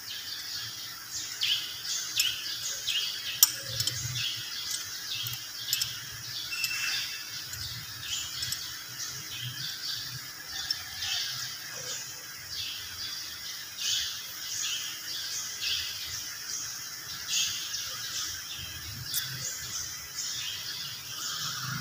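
Birds chirping over and over, short high calls about one or two a second, with a few light metallic clicks from parts being handled.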